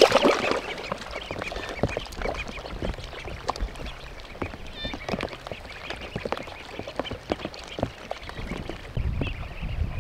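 Ducks calling, loudest in the first half-second, then a few short calls among many faint scattered clicks.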